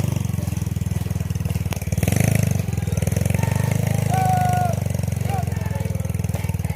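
An engine running steadily close by, a low, evenly pulsing rumble, with faint voices or calls above it.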